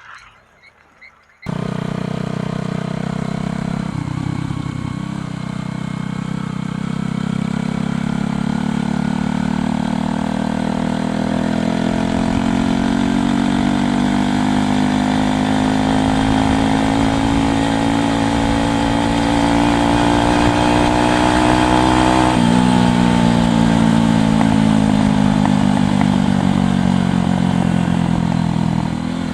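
Motorcycle engine running under way, its pitch rising slowly and steadily as the bike gathers speed. It dips suddenly a little over three-quarters of the way through, then eases slowly down.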